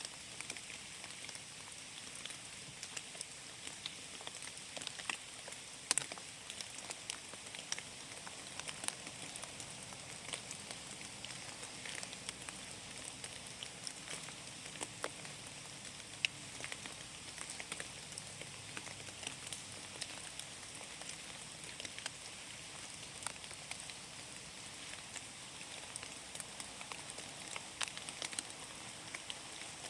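Steady rain falling in a forest, a constant patter with many separate drops ticking close by, a louder drop standing out about six seconds in.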